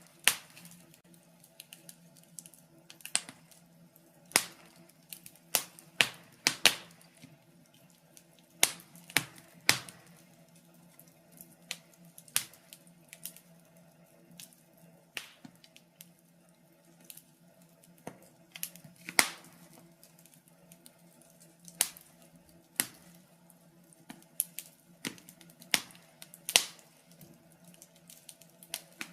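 Wood fire crackling in a fireplace: irregular sharp pops and snaps, some loud, a few seconds apart or in quick clusters. Underneath is a faint steady low hum.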